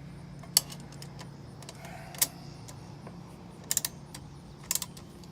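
Sharp metallic clicks and clinks of hardware being handled: two single clicks, then small quick clusters of clicks in the second half, over a steady low hum.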